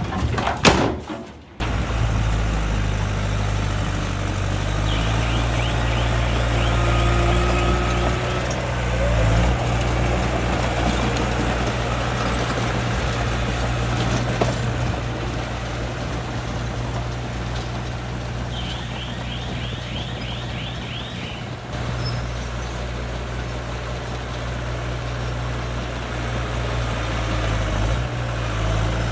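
Diesel engine of heavy earthmoving machinery running steadily under a low, even hum, after a brief loud burst and an abrupt change in the first second and a half.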